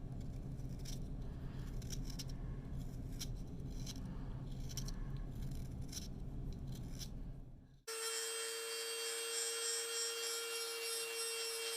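Power tools shaping a wooden handle. First comes a machine with a low steady hum as the wood is worked against it in short scraping strokes. At about eight seconds it cuts to a different tool, which gives a steady high-pitched whine.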